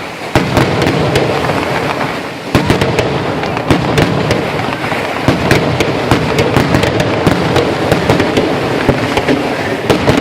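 Fireworks going off: a dense, continuous barrage of bangs and crackling with no let-up, and one sharp louder bang about half a second in.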